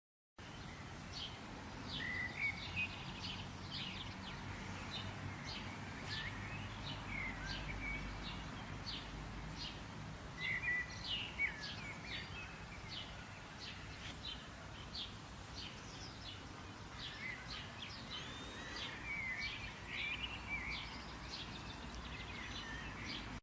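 Small birds chirping and calling over a steady low background noise: many short sharp chirps with a few warbling, sliding phrases mixed in, which come in clusters around two, eleven and twenty seconds in.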